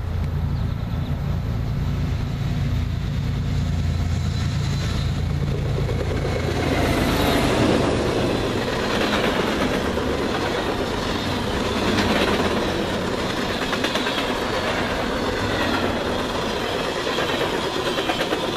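Freight train passing at speed. A steady low drone of diesel locomotive engines fills the first seven seconds, then the rumble and rhythmic clatter of freight-car wheels on the rails as boxcars, hoppers and tank cars roll by.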